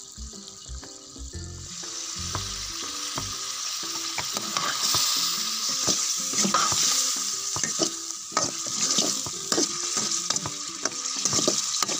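Goat liver frying and sizzling in pepper masala in a metal kadai as the added water cooks off, stirred with a perforated steel ladle that scrapes and knocks against the pan. The sizzling swells up about two seconds in, over faint background music.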